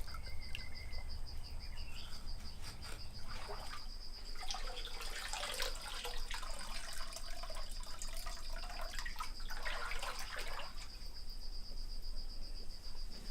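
A cricket trilling steadily in a high, evenly pulsed chirr. A louder stretch of rushing, water-like noise comes in about four seconds in and fades out about eleven seconds in.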